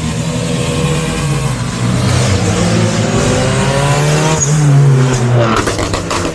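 Car engine revving, its pitch climbing for several seconds and then dropping off, with a few short sharp cracks near the end.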